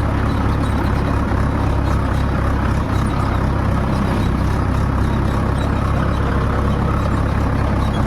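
A vehicle engine running steadily as a loud, even, low drone, with no revving or breaks.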